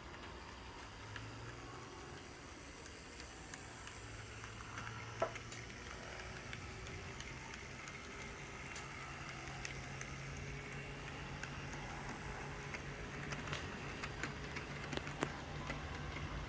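Model steam locomotive running on the track: a steady low motor hum that creeps slightly higher, over a light rolling hiss, with scattered sharp clicks.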